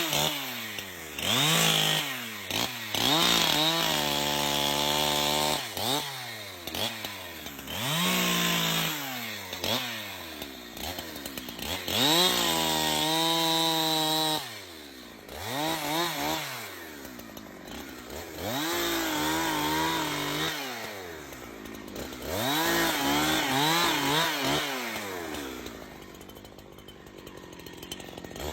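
Chainsaw engine revving again and again: its pitch climbs to full throttle, sometimes holds there for a second or two, and drops back toward idle, as the saw cuts wood. It runs lower and quieter near the end.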